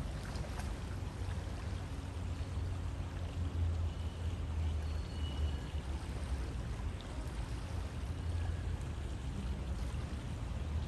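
River water flowing steadily, a continuous rushing with a strong low rumble underneath. A couple of faint, short high chirps come through about four to five seconds in.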